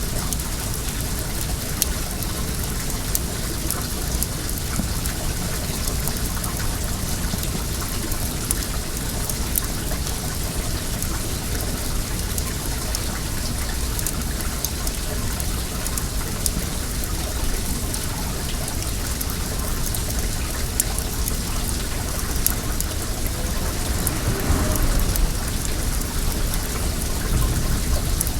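Well water running steadily with a wood bonfire crackling over it in small sharp pops. About 24 seconds in, something briefly swells louder over the steady rush.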